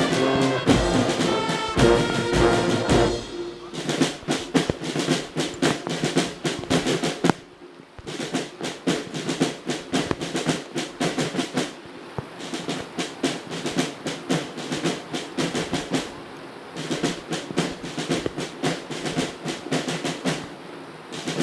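A brass band finishes a phrase, then snare drums take over with fast rolling strokes, played in repeating phrases of about four seconds with short breaks between.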